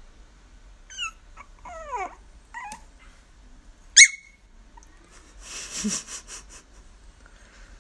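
A dog whimpering: several short high whines, some sliding down in pitch, with a sharp yelp about four seconds in and a brief noisy patch around six seconds.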